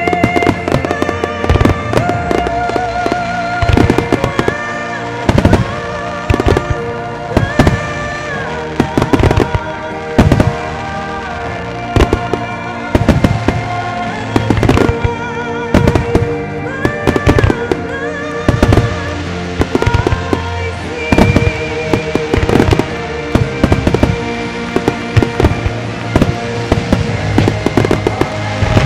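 Aerial firework shells bursting in rapid, continuous succession, dozens of loud sharp reports, over music with held, wavering notes.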